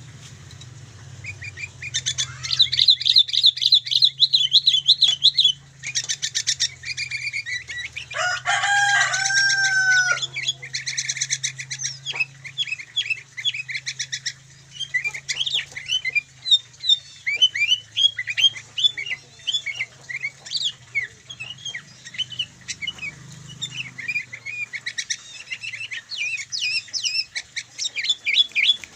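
Pair of sooty-headed bulbuls (kutilang) calling: fast trills early on, then a long run of quick, sharp chirps. A lower call with a falling end comes in about eight seconds in, and a faint steady hum sits underneath.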